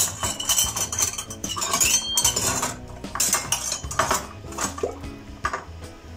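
Kitchenware clinking and clattering, many irregular metallic clinks, busiest in the first two seconds.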